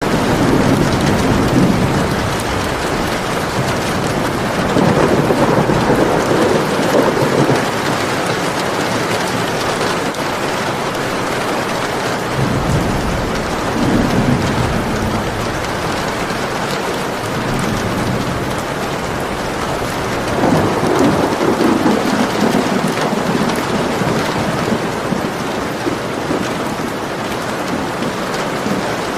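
Steady heavy rain falling, with rolling thunder swelling and fading several times.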